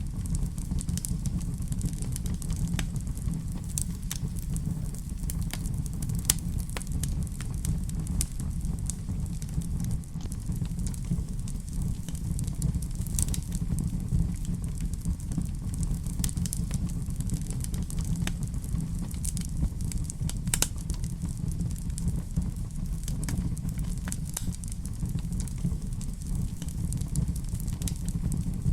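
Wood fire burning in a fireplace: a steady low rumble of flames with scattered sharp crackles and pops of burning logs throughout.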